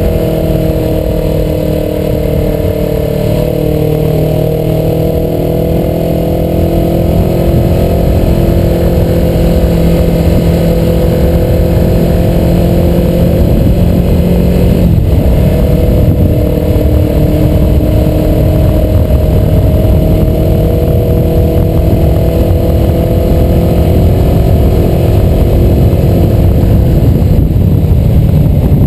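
Suzuki motorcycle engine running at road speed, heard from onboard with wind noise on the microphone. The engine note holds steady, dips briefly about halfway through, and gets slightly louder in the later part.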